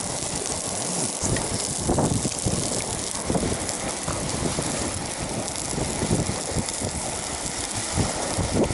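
Strong wind gusting against the microphone, with irregular low buffeting over a steady rushing hiss.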